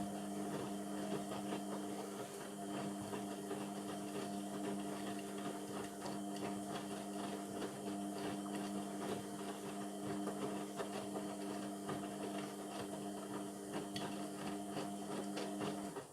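Indesit MTWC71252WUK washing machine running mid-cycle, a steady hum with a scatter of small clicks, which cuts off near the end.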